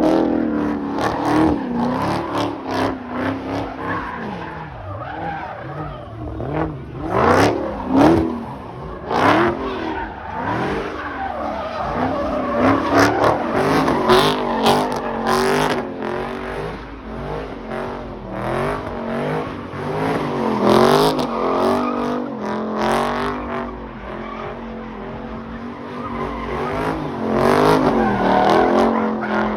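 Car engines revving hard, their pitch rising and falling over and over, with tires squealing as the cars slide.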